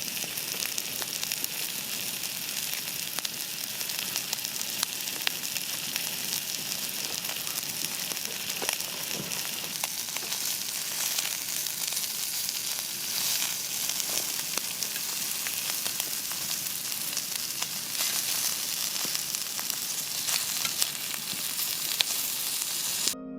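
Food frying, a steady sizzle with frequent sharp pops and spits, which cuts off suddenly near the end.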